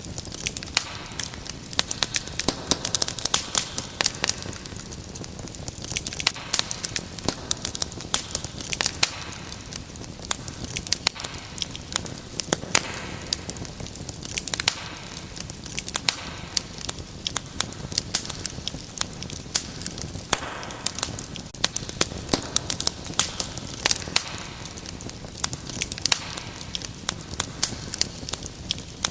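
Wood fire crackling and popping: many irregular sharp snaps over a soft steady hiss of the flames.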